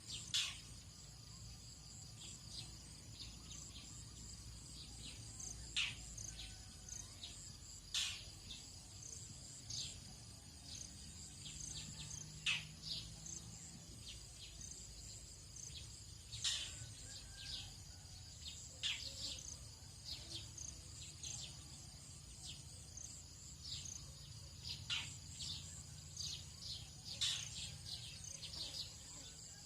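Tropical dawn ambience: a steady high-pitched insect chorus with frequent short bird chirps scattered throughout.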